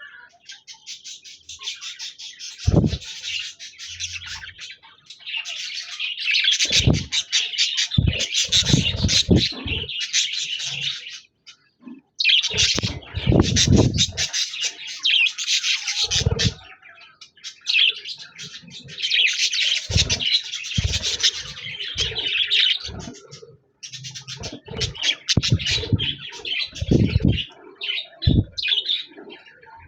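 Pet budgerigars warbling: long bouts of rapid, chattering song broken by two short pauses, with scattered low thumps mixed in.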